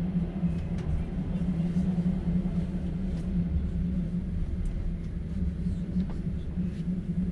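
Passenger train running, heard inside an open sleeper carriage: a steady low rumble and hum from the wheels and carriage, with a few faint knocks.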